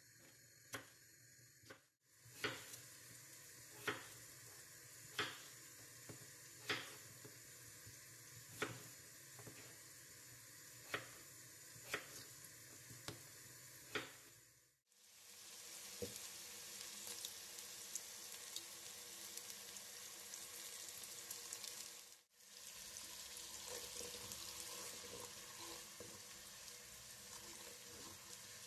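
Sharp single knocks, about one a second, for the first half. Then a steady sizzle of food frying in a pan starts about halfway through.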